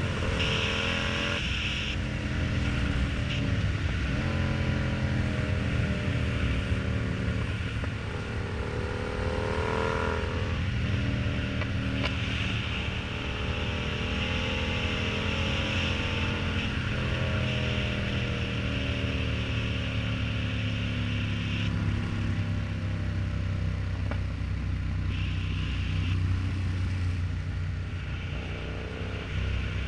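Yamaha MT-07's parallel-twin engine running through an aftermarket exhaust under way, its pitch climbing as it pulls through the gears and dropping back at shifts about 1.5 s and 10 s in, then falling away as it eases off later on.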